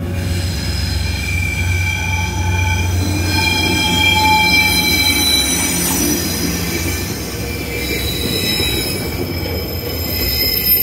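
Container freight train rolling past with its wheels squealing in several steady high-pitched tones over a continuous low rumble.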